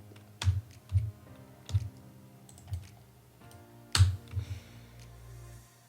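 Soft background music with held chords, under a few irregular computer keyboard keystrokes and clicks. The two sharpest clicks come about half a second in and about four seconds in.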